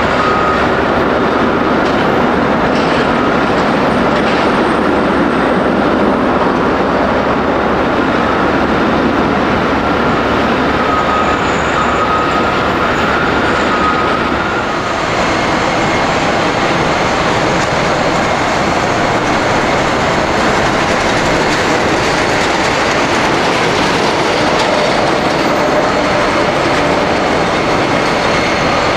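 Jet airliner engines heard close up: a loud, steady rushing noise with a faint whine. The sound changes character about halfway through.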